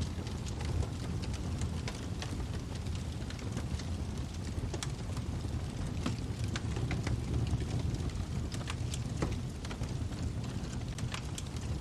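Wood fire burning in a fireplace: a steady low rumble of flames with irregular crackles and pops from the burning wood.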